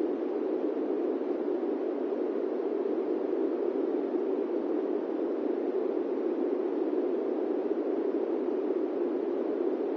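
Airplane-cabin white noise: a steady, even rush centred low, with no engine tones, changes or breaks.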